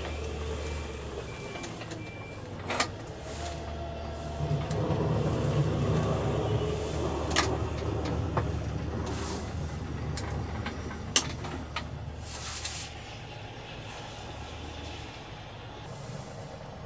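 A vehicle engine running with a steady low hum that swells for several seconds in the middle, a short series of high beeps at the start, and a few sharp knocks.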